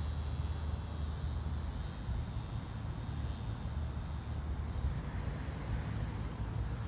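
Faint insect buzzing that fades away over the first few seconds, from the insect caught by a Mississippi kite, over a steady low rumble.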